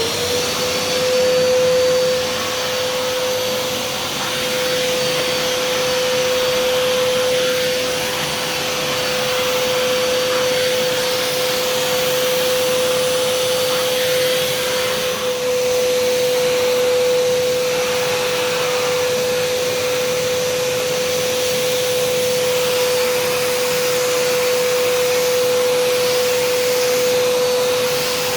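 Kärcher SE 4001 spray-extraction vacuum cleaner running in dry-vacuum mode: a steady motor whine over a loud rush of air. It comes up to speed right at the start, just after being switched on.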